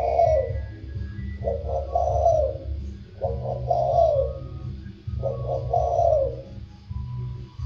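Spotted dove cooing in repeated phrases, one starting about every two seconds, in the deep 'thổ sâm' voice type prized by Vietnamese dove keepers. A low steady hum runs underneath.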